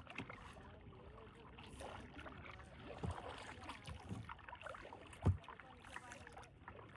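Kayak paddling through calm swamp water: paddle strokes dipping and pulling, with a few soft thumps. The loudest thump comes about five seconds in.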